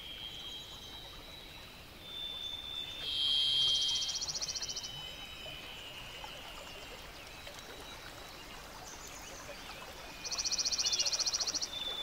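Birds singing: high, thin whistled notes, broken twice by a loud, rapid, buzzy trill, once about three seconds in and again near the end.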